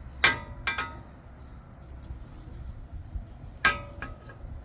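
Steel adapter cups from a wheel bearing press tool set clinking against each other as they are picked through, three ringing metal clinks, the loudest near the end.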